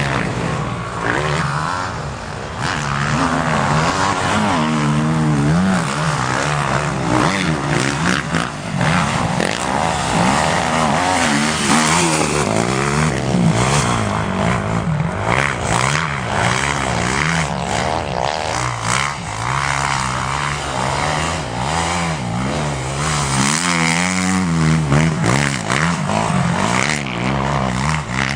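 Motocross motorcycle engines revving hard and easing off, their pitch rising and falling continuously as the bikes accelerate and shift.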